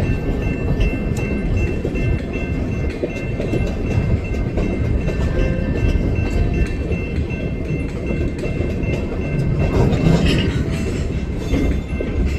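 A diesel switcher locomotive and its train of scrap cars rolling by with a steady low rumble and rail noise, with a louder swell about ten seconds in. Background music seems to run underneath.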